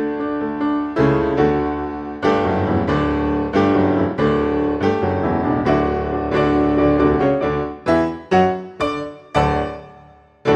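Background piano music: chords and notes struck one after another, each fading away, ending in a few quick single notes and a fade.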